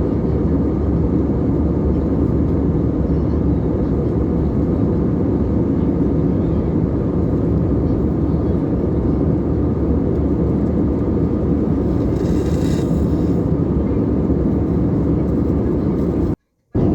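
Steady low roar inside the passenger cabin of an Airbus A320 in flight: engine and airflow noise. A faint higher hiss rises briefly about twelve seconds in, and the sound cuts out for a moment near the end.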